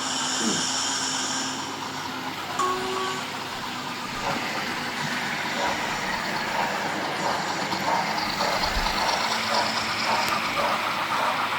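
Hornby Black 5 model steam locomotive with sound running on a layout: a brief high whistle-like tone at the start, then a clatter of chuffs and wheel ticks that grows louder from about four seconds in.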